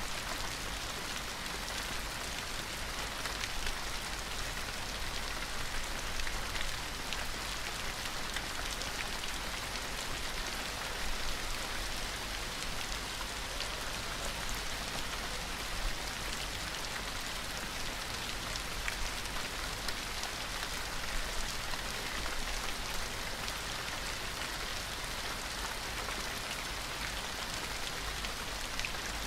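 Gentle rain falling steadily, with many single drops ticking on a surface.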